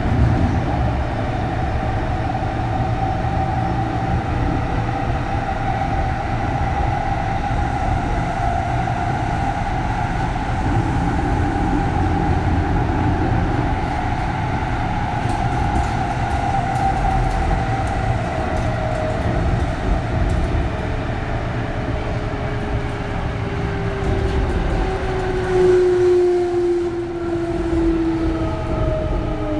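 Inside a Kintetsu 3200 series motor car: the growling whine of its early Mitsubishi GTO VVVF inverter and traction motors over the rumble of wheels on rail. The whining tones hold steady, then fall in pitch through the second half as the train slows.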